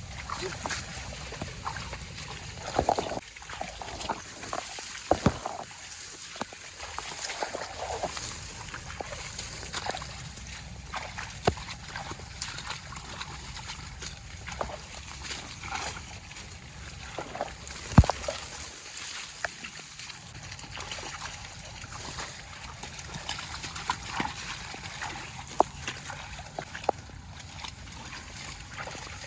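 Water sloshing and splashing, with scattered sharp knocks and clicks; the loudest knock comes about two thirds of the way through.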